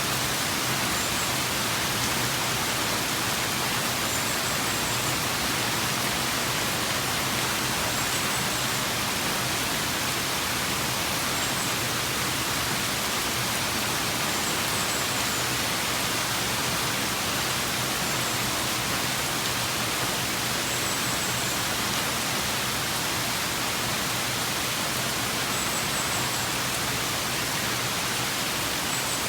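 Steady rain falling as an even, unbroken hiss. Faint short high chirps come every few seconds.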